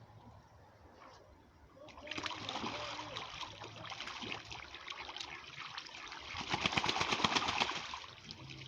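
Water splashing and trickling in the ducks' water container, starting about two seconds in and growing into a stretch of rapid splashing near the end.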